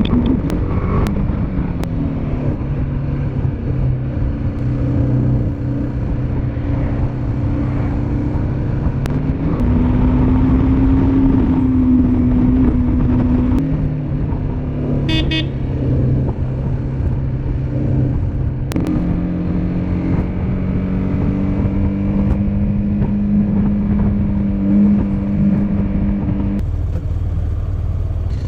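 Motorcycle engine running on the move, its pitch dropping and rising several times as speed and gears change, over steady wind and road noise. A brief high beeping comes about fifteen seconds in.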